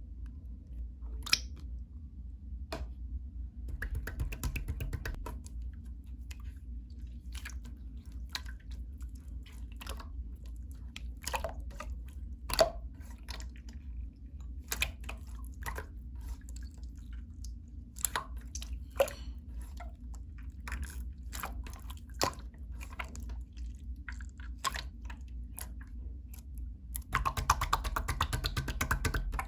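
Clear slime being squished and stretched by hand, giving scattered sticky clicks and small air-bubble pops, with denser crackling runs a few seconds in and again near the end, over a low steady hum.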